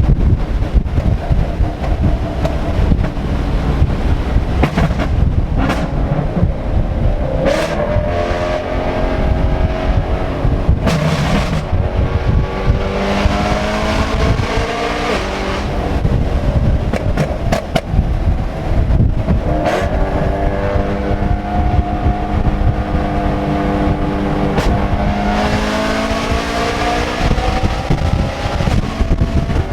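Straight-piped BMW E90 M3's S65 V8 running hard, its exhaust pitch climbing with the revs several times as it pulls through the gears, with a few sharp cracks.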